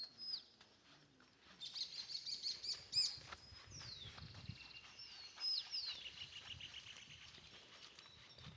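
Small songbirds chirping and calling: repeated high notes and quick downward-sliding whistles, with a fast run of notes about two seconds in and a buzzy trill around the middle.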